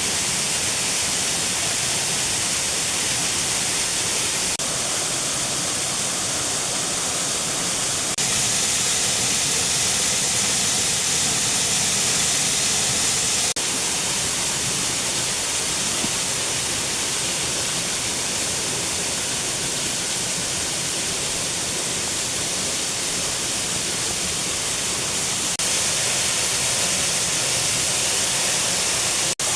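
Steady rushing noise of a waterfall, an even, unbroken roar of falling water with small jumps in level a few times.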